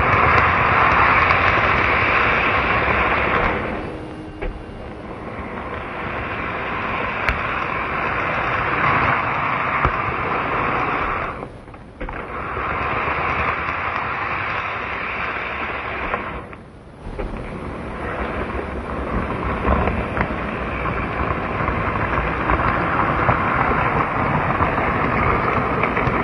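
N-gauge model train running along the track: a steady rolling rattle of wheels on rail that drops away briefly twice partway through.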